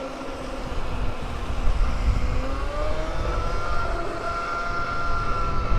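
Electric dirt bike's motor whining while riding. The whine rises in pitch a little after two and a half seconds in and then holds steady, over a low rumbling noise.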